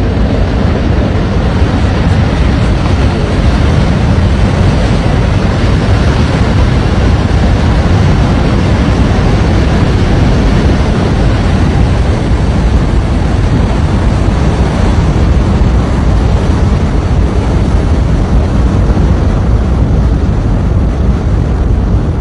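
Mud-and-rock debris flow rushing downhill: a loud, steady rushing rumble, heaviest in the low end.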